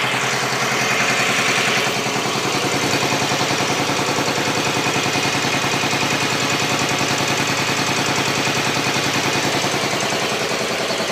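Dnepr K-650 motorcycle's flat-twin engine idling steadily with an even, rhythmic beat.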